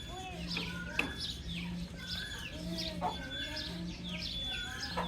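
Baby chicks peeping: many short high chirps, each falling in pitch, overlapping several times a second, with a few lower calls underneath.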